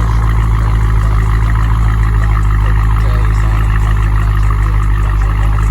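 Car engine running at a steady speed with a loud, deep rumble, over a steady hiss.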